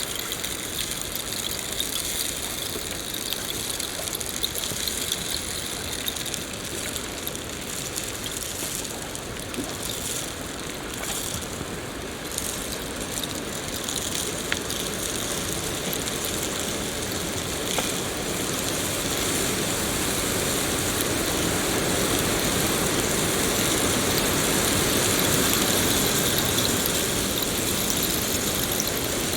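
Steady rain falling, an even hiss with scattered drop ticks, growing a little louder and fuller in the second half.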